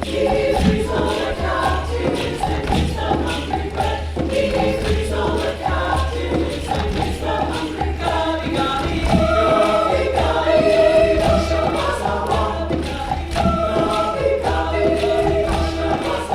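Community choir singing an African song in several parts, with regular hand-percussion strokes and a steady low drone underneath.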